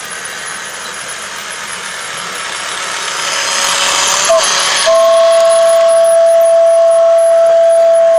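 Train running with a rushing noise that builds for about five seconds, then one long steady train-whistle blast that cuts off sharply at the end.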